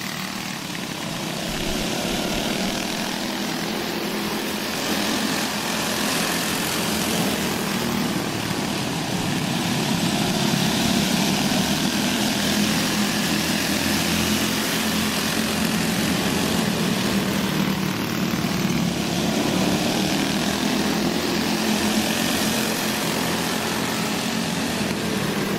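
A pack of dirt-track go-karts racing, several small engines running together at high revs, the sound swelling and easing every few seconds as the karts circle the track.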